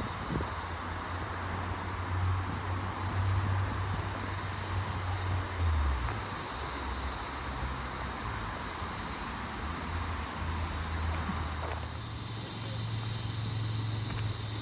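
Steady rumble of road traffic, swelling louder for a few seconds early on and again briefly near the middle.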